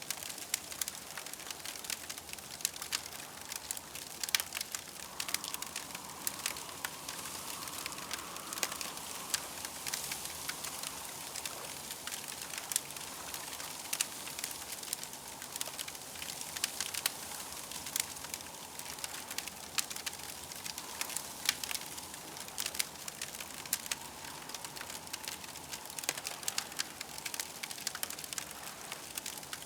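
Campfire crackling, with frequent irregular sharp pops and snaps over a soft steady hiss. A faint whistling tone swells and fades about five to ten seconds in.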